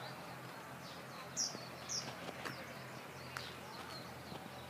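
A small bird giving two short, high, downward-sliding calls about half a second apart, with fainter chirps around them, over a quiet steady outdoor background with a couple of faint clicks.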